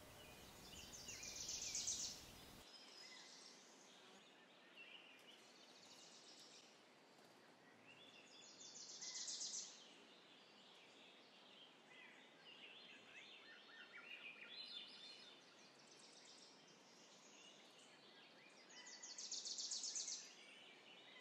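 Faint birdsong over a quiet hiss: a small songbird repeating a short, high, trilled song several times, with a few softer chirps between the songs.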